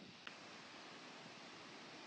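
Faint steady outdoor hiss with a single short, sharp click about a quarter second in.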